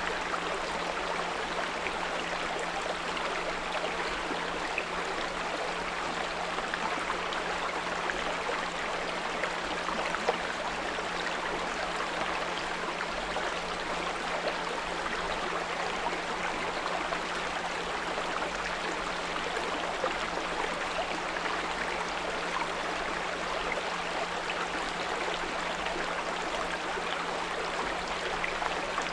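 Small brook flowing steadily, with a steady low 174 Hz pure tone mixed in underneath the water sound.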